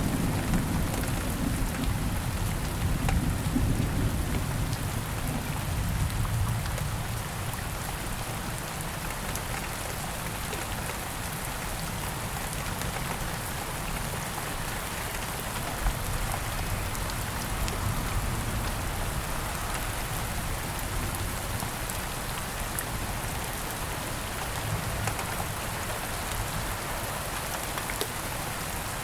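Steady rain falling on leaves and ground, with scattered individual drops. A low rumble of distant thunder dies away over the first several seconds, leaving the even patter of the rain.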